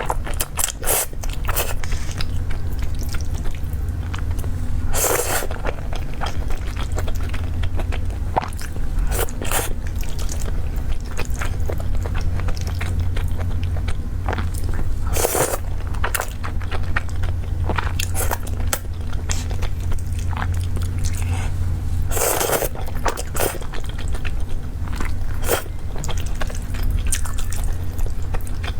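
Close-miked eating: chewing and biting with soft crunches, short clicks and occasional scrapes, with several brief louder mouth noises spread through, over a steady low hum.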